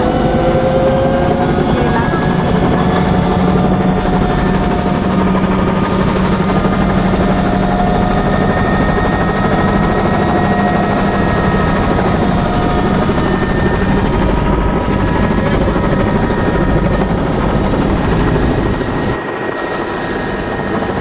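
Tour helicopter's turbine engine and rotor running loud and steady: dense noise with a fast low pulse and a steady whine on top. It eases off briefly near the end.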